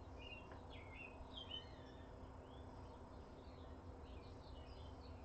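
Faint birdsong: many short chirps that bend in pitch, coming in little runs, over a steady low background rumble.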